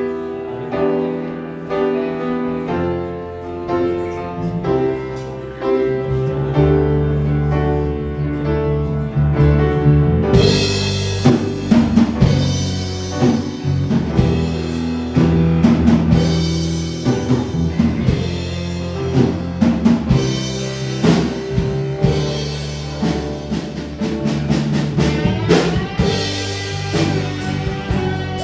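Live rock band playing, led by electric guitar: slow held chords at first, then the drums and cymbals come in about ten seconds in and the full band carries on.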